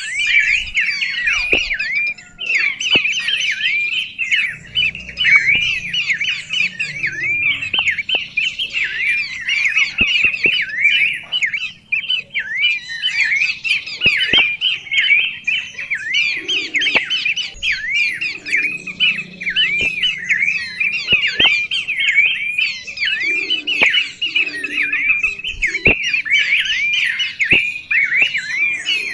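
Songbird singing a fast, unbroken chatter of short, high, down-hooked chirps, with a few faint clicks.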